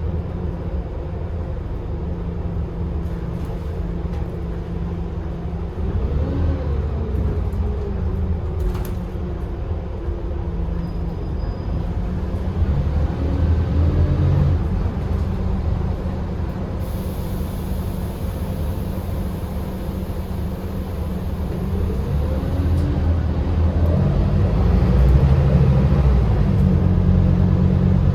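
Scania K280UB bus with a 9.3-litre five-cylinder diesel and a ZF EcoLife six-speed automatic, running under way. Its gearbox whine rises and falls with the changes of speed, and the engine gets louder and busier near the end as it pulls harder.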